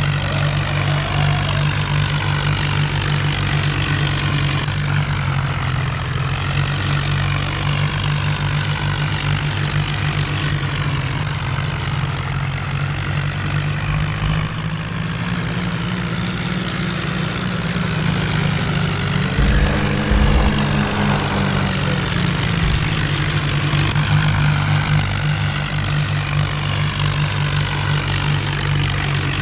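Diesel tractor engines running hard under load during a tractor tug-of-war pull, a steady low drone, with a short rise in engine speed about twenty seconds in.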